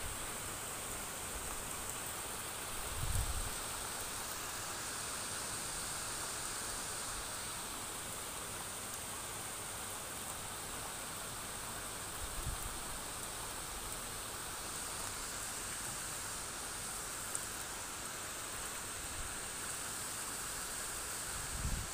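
Steady hiss of rain falling on roofs and garden foliage, with a few soft low thumps.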